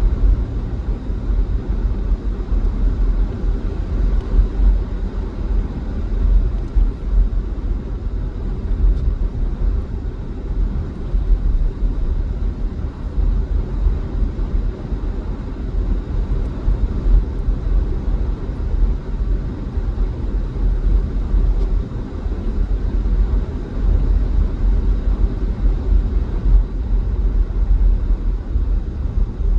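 Steady low rumble of a vehicle driving at highway speed: engine and tyre road noise.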